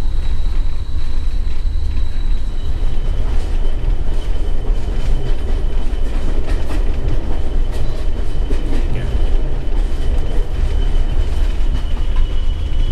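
Heritage passenger train running, heard from inside the carriage: a steady low rumble with the clicks of the wheels over the rail joints and a thin high tone above it.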